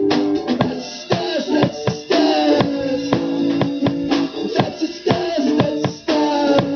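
Live rock band playing an instrumental passage: drum kit with bass drum and snare hits, over guitar chords.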